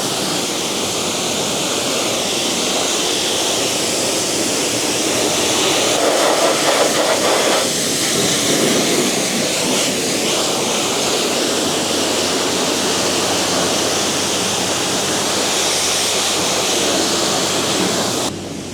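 High-pressure wand of a self-service car wash spraying water onto a motorcycle: a loud, steady hiss that changes a little in tone several seconds in and cuts off abruptly near the end.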